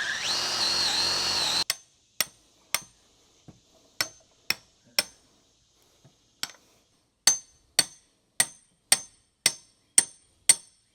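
A power drill whines briefly, rising in pitch, and stops abruptly. Then come sharp hammer blows with a metallic ring, a few scattered at first, then a steady run of about two blows a second.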